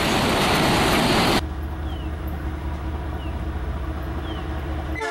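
Loud rushing rumble of a freight train rolling past, cut off abruptly about a second and a half in. A diesel locomotive's low steady engine drone follows, with a few short bird chirps over it, and a train horn starts just at the end.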